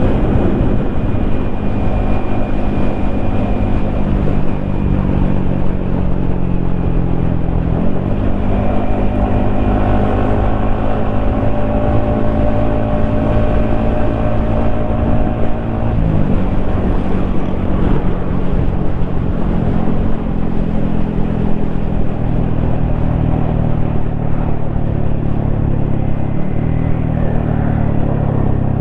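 Yamaha XSR155's single-cylinder 155 cc engine and exhaust running steadily under way, its note breaking and resetting three times, about eight, sixteen and twenty-six seconds in, as with gear changes.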